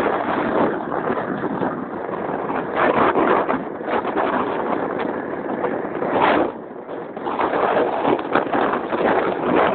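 Riding noise on a Keeway Hurricane scooter: wind rushing over the microphone with the scooter's engine running underneath. It eases briefly about two-thirds of the way through.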